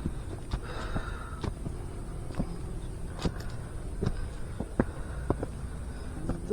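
A hiker's footsteps on a dirt forest trail, with short irregular steps about every half second.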